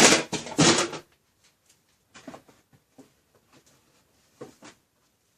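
Packaged die-cast toy cars being handled: a loud rustling scrape of cardboard and plastic packaging for about the first second, then scattered light clicks and taps.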